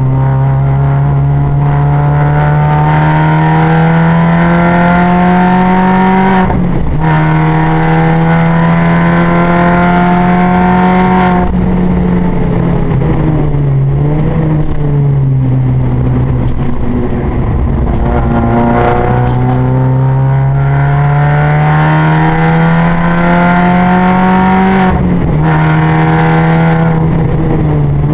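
A Mini's engine heard on board during track driving, revs climbing steadily under acceleration. The pitch drops sharply about six and a half seconds in and again near the end, like upshifts, and the revs sag and waver for a stretch in the middle.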